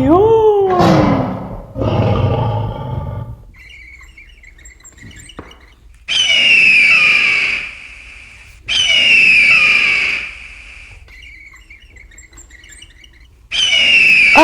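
A lion roaring in the first few seconds, then a high, descending bird-of-prey scream, played as an eagle's call, heard three times.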